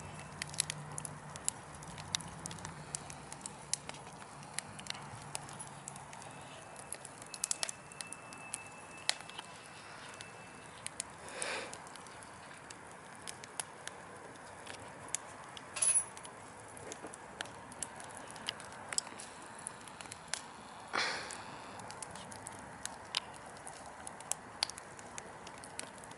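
Wood fire burning in a fireplace: a steady hiss with frequent sharp crackles and pops from the burning logs, and two louder hissing flare-ups, about eleven and twenty-one seconds in.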